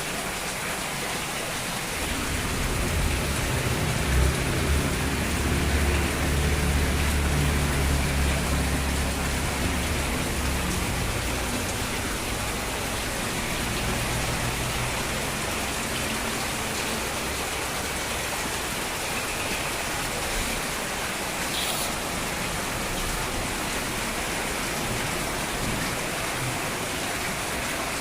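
Steady rain falling, with a louder low rumble from about two seconds in until about eleven seconds.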